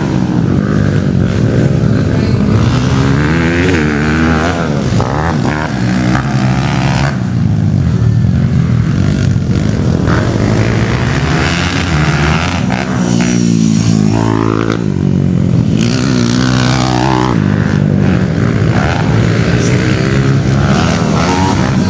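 Motocross dirt bike engines revving hard, pitch rising and falling over and over as they accelerate and shift, with more than one bike heard at once.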